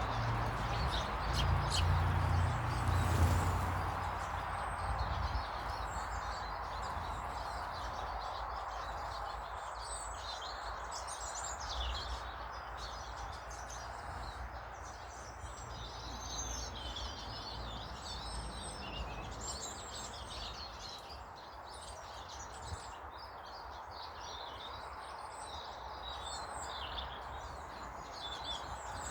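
Many small garden birds chirping and twittering in quick short calls, thickening after the first several seconds, over a steady background hiss. A low rumble sounds in the first few seconds.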